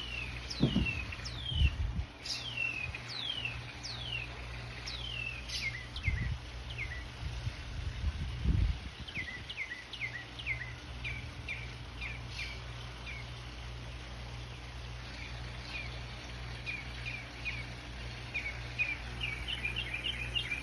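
Northern mockingbird singing: a run of repeated downward-sliding whistled notes, about two a second, then shorter, quicker notes and a fast rapid series near the end. A few low thumps about two, six and eight seconds in.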